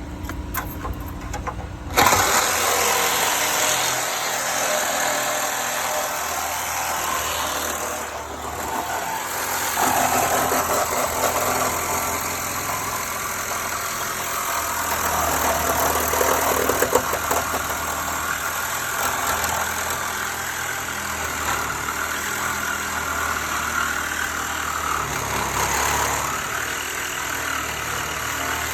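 Loud, steady noise of power cutting on a truck cab's metal, starting suddenly about two seconds in and running on with small swells over a low hum.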